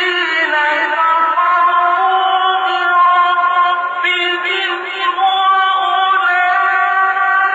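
A male Quran reciter chanting in the melodic mujawwad style, holding long, high, ornamented notes, with a short breath break about four seconds in.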